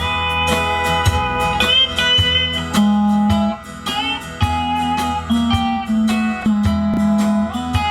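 Live country band playing an instrumental break: a guitar carries the slow melody with sliding notes over bass and a steady drum beat.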